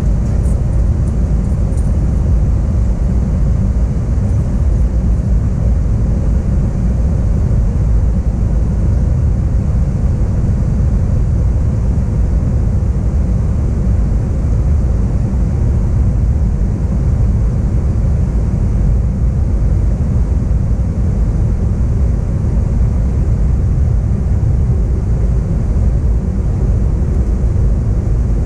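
Steady cabin noise aboard an Airbus A321-131 airliner, heard from inside the cabin: an even, deep rumble of engines and airflow with no distinct events.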